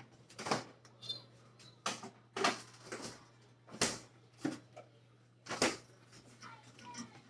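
Items being put away in a refrigerator: a series of about six separate knocks and bumps as the door is handled and things are set inside.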